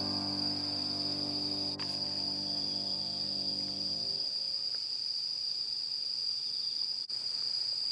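Crickets chirring in one steady high trill. A held piano chord of the background music rings and fades out about four seconds in.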